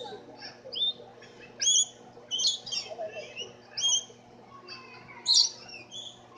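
Caged birds chirping and squawking in short, high calls, roughly one a second, the loudest about five seconds in.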